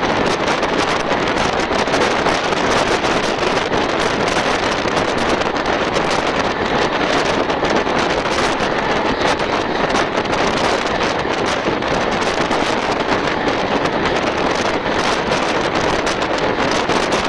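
Steady rushing noise of an express train running at speed, heard at the carriage window, with wind buffeting the microphone.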